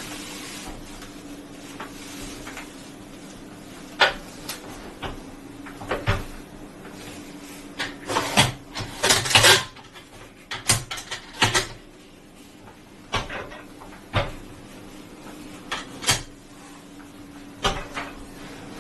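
Irregular handling noises: a dozen or so sharp clicks and knocks, with a denser run of short scraping, rustling sounds about halfway through, over a faint steady hum.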